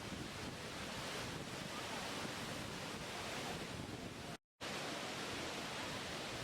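Steady rushing of falling water, an even roar with no distinct splashes. It cuts out completely for a split second about four and a half seconds in, then resumes unchanged.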